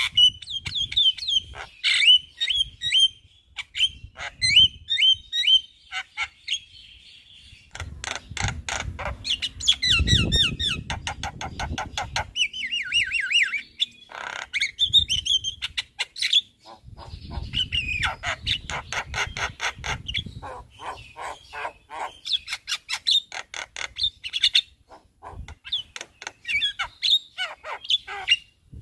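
Javan myna singing a long, varied song of chirps, whistles and rapid rattling notes, with short breaks between phrases. A low rumble sits beneath the song twice, around ten and eighteen seconds in.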